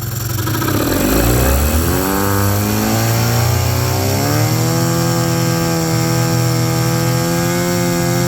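1997/98 Mercury 15 hp two-stroke outboard running in gear in a test tank and opened up quickly. Its revs climb steadily for about three seconds, then hold at a high, even speed. It does not bog, though the owner reports the motor bogging on throttle in gear.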